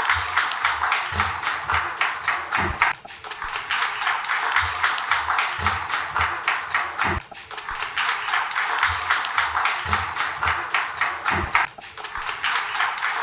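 Audience applauding over background music with a steady low beat.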